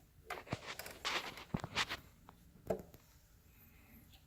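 Handling noises: a few light clicks and knocks with some rubbing as a phonograph reproducer is picked up and handled, with the knocks in the first three seconds.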